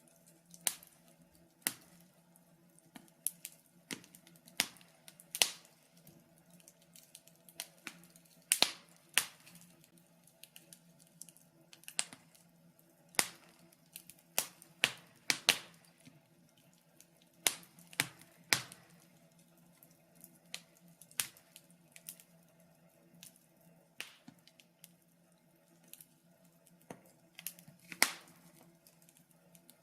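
Wood fire in a fireplace crackling, with irregular sharp pops and snaps of varying loudness over a faint low hum.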